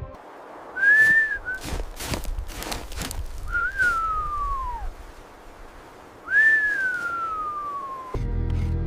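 Three high, thin whistling tones, each rising briefly and then sliding down in pitch, over a rushing hiss with sharp crackles.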